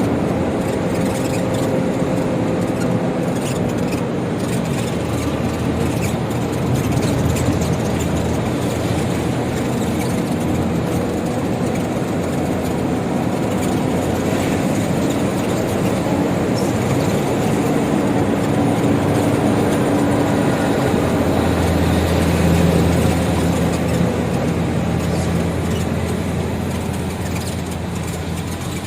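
Truck's diesel engine running on biodiesel made from used cooking oil while driving, with steady road noise; the engine tone drifts up and down in pitch, and a deeper hum grows stronger about two-thirds of the way through.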